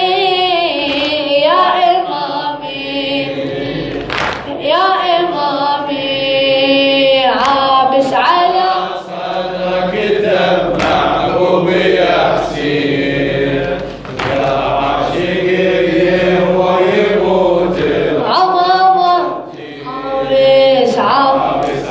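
Voices chanting a Shia mourning elegy (latmiya) for Imam Husayn in Arabic, unaccompanied and continuous, with a choir-like group of voices.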